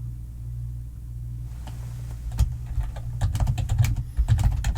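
Typing on a computer keyboard: a first keystroke about halfway through, then a quick, irregular run of keystrokes over a steady low hum.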